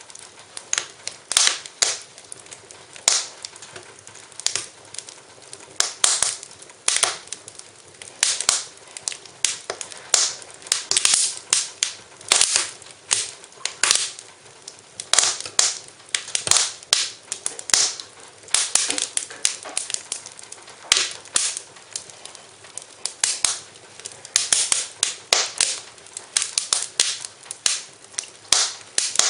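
Wood fire in a fireplace crackling, with sharp pops coming thick and at irregular intervals.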